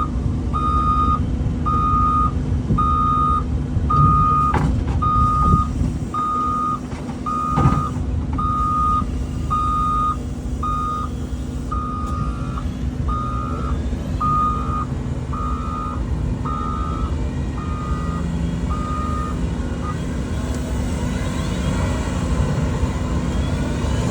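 A heavy-equipment backup alarm beeping steadily, about once a second, over the low rumble of a diesel engine running. The beeping stops near the end. Two sharp metallic clicks come in the first third.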